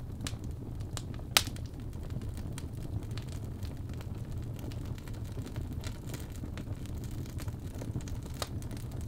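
Birch logs burning in a fireplace: a steady low rumble of flames under scattered crackles, with one sharp, loud pop about a second and a half in.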